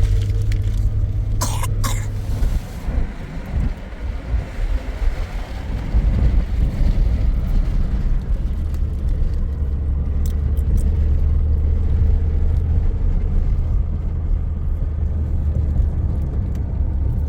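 A motor vehicle's engine running steadily: a low, constant drone.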